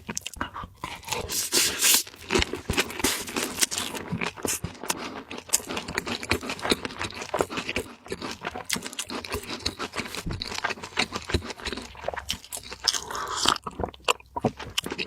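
Close-miked, mukbang-style eating of fried food: loud crunching bites and chewing, with a dense, irregular crackle throughout.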